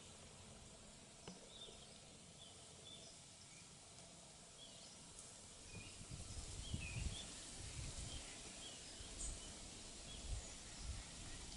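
Birds chirping, faint, many short high calls scattered throughout. A low rumbling noise comes in about halfway through.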